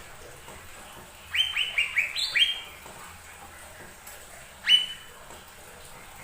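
Cucak ijo mini (a small leafbird) calling: a quick run of about seven short rising chirps, then after a pause one louder rising note held briefly.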